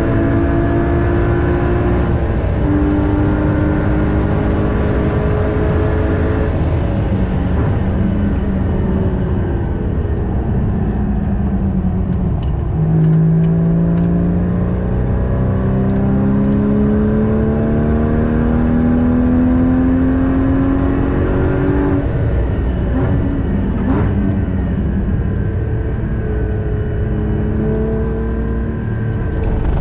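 Porsche Cayman GT4's 3.8-litre flat-six engine heard from inside the cabin at track speed. The engine note runs high, then falls as the car brakes and shifts down for a corner about halfway in. It then climbs steadily in one gear for about nine seconds before falling again for the next slow corner.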